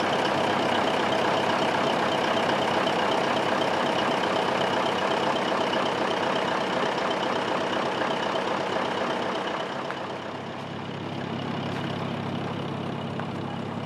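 V8 diesel truck engine driving a small boat, running hard with a loud, dense roar, then easing to a lower, steadier run about ten seconds in.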